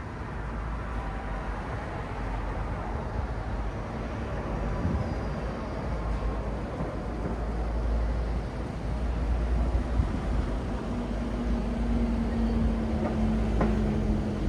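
City street traffic: a steady rumble of passing vehicles, with a low engine hum joining about eleven seconds in and a short click near the end.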